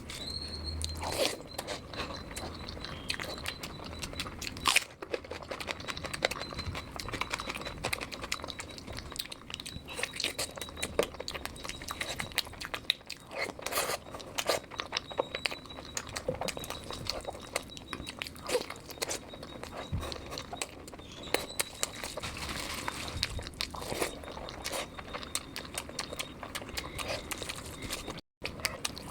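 Close-miked eating sounds: a person chewing and biting food, with many small wet clicks, smacks and crunches in quick, irregular succession. A faint steady high whine runs underneath.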